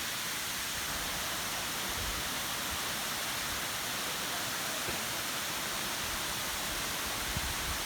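La Coca Falls, a rainforest waterfall, rushing: a steady hiss of falling water, with a few faint low bumps.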